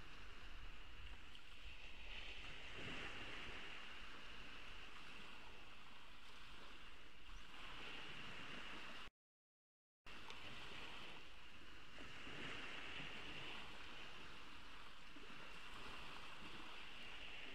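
Gentle ocean waves washing onto a beach: a steady wash that swells and eases every few seconds. The sound cuts out completely for about a second midway, then resumes.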